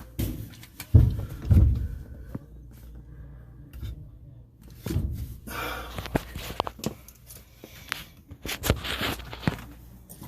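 Irregular knocks, clicks and scrapes of hands working at a washing machine's drain-pump wiring and housing, with two heavy thumps about a second in.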